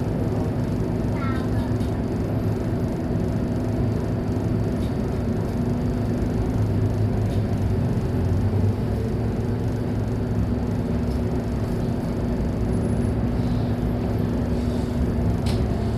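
Scania K230UB city bus's diesel engine running steadily, swelling slightly about seven seconds in.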